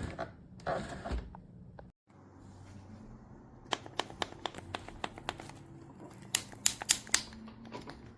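Sharp plastic clicks and taps from handling the parts of a Shark Navigator Lift-Away upright vacuum, coming in a rapid, irregular run that is thickest in the second half, after a brief break about two seconds in.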